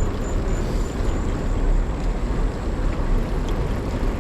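Steady wind rush buffeting the microphone while riding a bicycle at speed, with a deep continuous rumble.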